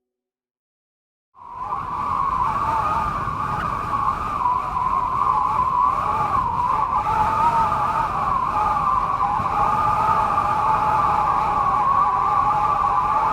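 Small quadcopter drone, a DJI Mavic Mini, hovering: a steady high-pitched propeller whine whose pitch wavers slightly. It starts suddenly about a second and a half in.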